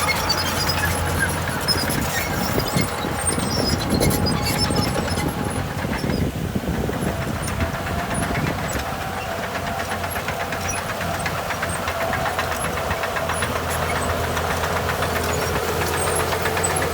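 Heavy diesel earthmoving machinery running steadily under work, with a continuous clatter and a faint wavering whine.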